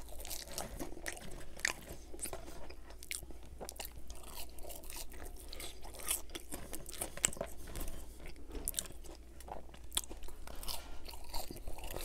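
Close-up chewing of french fries: wet mouth sounds with many small crunching clicks.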